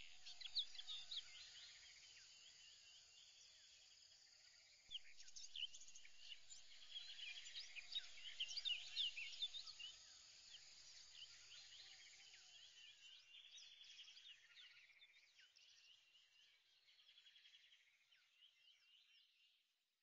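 Faint chorus of birds chirping and trilling, busiest a few seconds in and thinning out toward the end.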